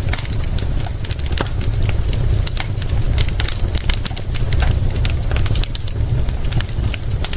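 Wood fire crackling, with frequent irregular sharp pops and snaps, over a steady low rumble and the even hiss of rain.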